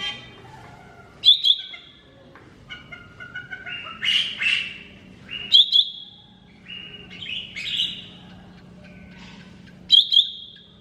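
Cucak ijo mini leafbird singing: a sharp, loud double note repeated three times about four seconds apart, with varied warbling phrases in between. A faint steady hum runs underneath.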